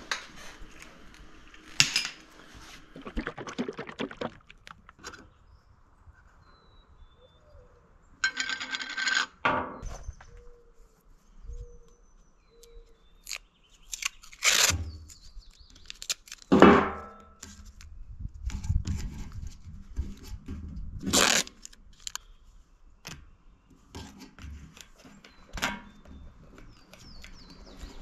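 Irregular clinks, knocks and scrapes of metal parts being handled, with a short rattle about eight seconds in.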